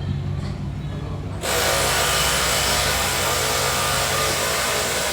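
A power tool starts suddenly about a second and a half in and runs at a steady high, hissing whine for about four seconds over a low rumble.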